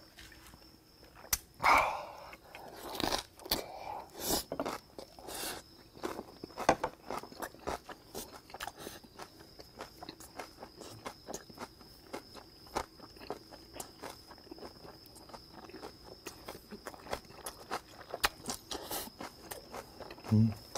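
Close-up chewing of a mouthful of grilled pork belly wrapped in fresh, crunchy kimchi: a long run of small, irregular wet crunches and mouth clicks, a few louder bites in the first several seconds.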